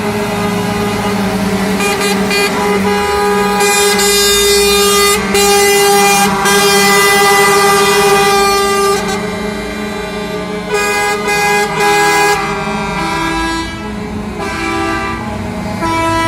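Several truck air horns sounding together and in turn, overlapping at different pitches, over the low rumble of truck engines; the horns are loudest in the middle and thin out toward the end.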